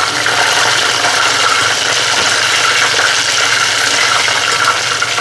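Chicken deep-frying in hot oil, a steady sizzle, with the frying nearly done. A low steady hum runs underneath.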